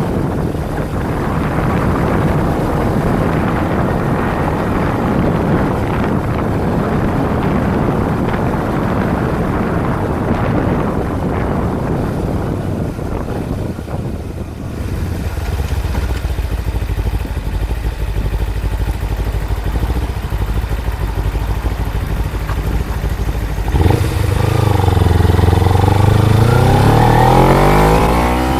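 Kawasaki Ninja 250 motorcycle on the move, its engine running under a rushing noise of wind and road for the first half. The engine then settles to a steady low note. About 24 seconds in it accelerates, its pitch climbing and dropping through gear changes as it gets louder toward the end.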